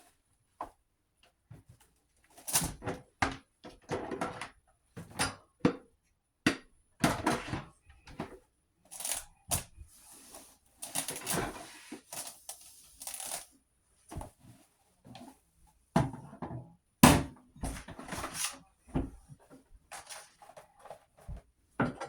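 Irregular knocks, clunks and short scraping and rustling sounds of household items being handled and set down, as in tidying a kitchen.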